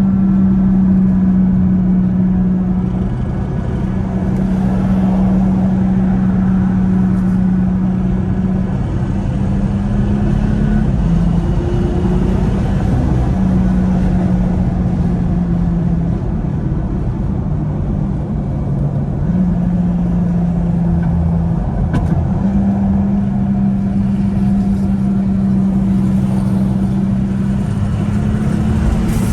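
Tuned BMW 440i's B58 turbocharged 3.0-litre inline-six engine droning steadily under way, its pitch holding level with brief steps and dips every few seconds, over road and tyre rumble.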